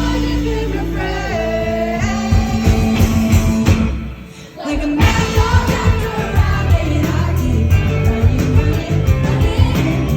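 Live rock band playing a song with sung vocals, recorded from the crowd. The music drops out briefly about four seconds in, then the full band comes back in with drums.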